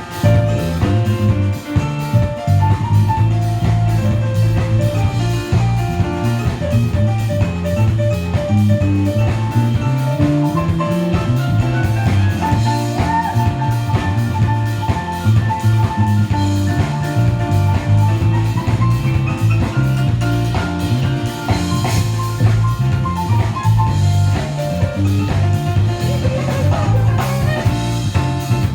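A rock band playing an instrumental passage live: electric guitar lines over bass and drum kit, with guitar runs climbing in pitch twice.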